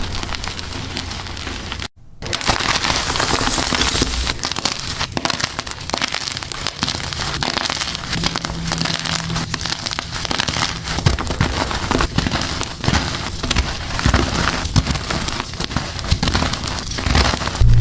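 Blocks of colourful gym chalk being crushed and crumbled, a dense run of crunching and crackling, with a brief break about two seconds in.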